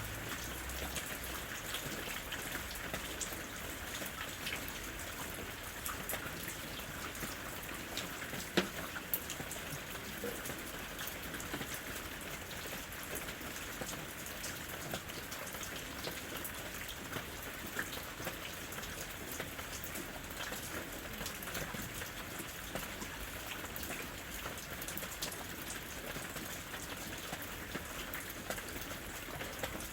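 Steady rain falling in a forest, an even patter with many individual drops ticking, one sharper drop hit about eight and a half seconds in.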